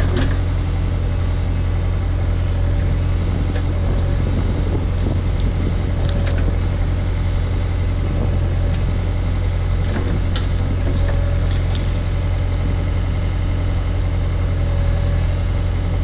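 Case/Davis D100 backhoe engine running steadily while the bucket digs out a small stump, with a couple of sharp knocks about six and ten seconds in.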